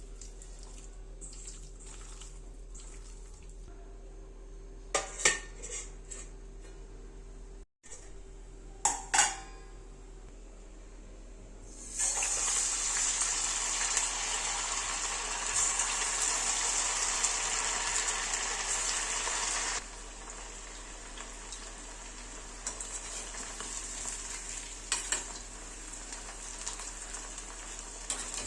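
A few sharp clinks of utensils on cookware, then food sizzling loudly in hot oil for about eight seconds, which cuts off abruptly; fainter clinks follow over a steady low hum.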